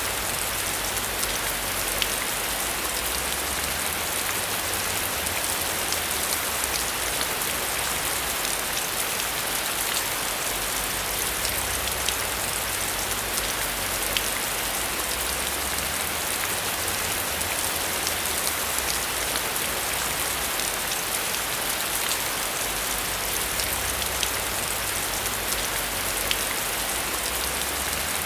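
Heavy rain falling steadily: a dense, even hiss with the odd sharper drop tick standing out.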